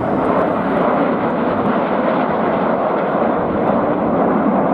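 Red Arrows BAE Hawk T1 jets flying past, a loud steady rush of jet engine noise.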